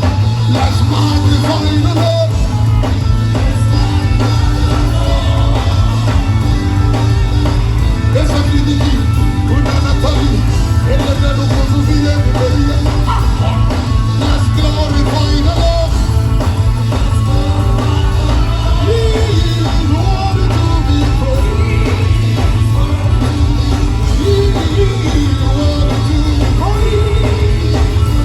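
Live gospel worship music: a full band with a heavy, steady bass under singing voices, loud and continuous.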